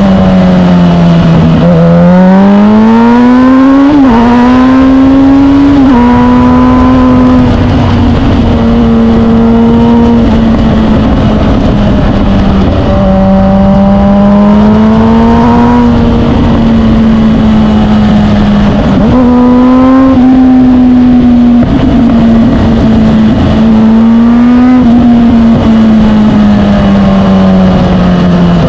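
Suzuki GSX-R1000 K8's inline-four engine running under way. The revs climb over the first few seconds with quick dips at gear changes, then hold nearly steady with gentle rises and falls, and another couple of short dips later on.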